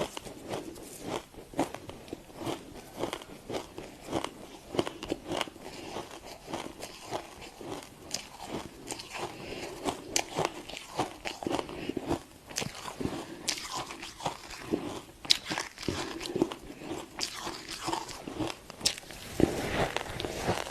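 Freezer frost being bitten and chewed: a run of crisp, irregular crunches, a few a second.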